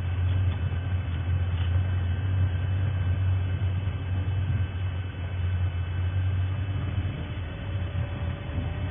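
Safari game-drive vehicle's engine running as the vehicle drives along, a steady low rumble.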